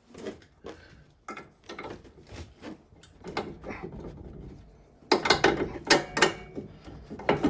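Irregular metal clicks and knocks as a bolt is worked into the steering knuckle to line up the suspension parts, with a busier run of clatter about five seconds in.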